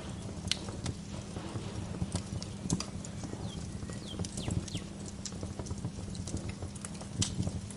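Wood fire crackling in a fireplace: irregular snaps and pops over a low rumble of the burning logs. A few faint short bird chirps come through around the middle.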